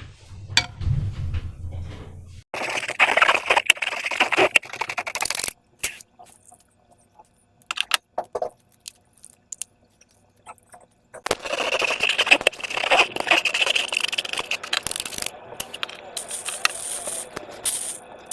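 Sticky slime being squished and worked by hand, making a dense wet crackling and clicking in two long stretches, with scattered single clicks in between.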